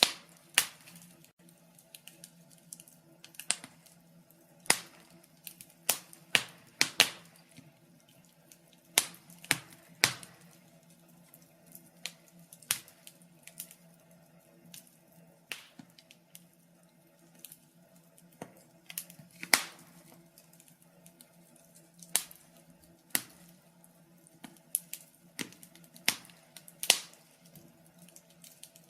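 Fire crackling: irregular sharp pops and snaps, one or two a second, over a faint steady low hum.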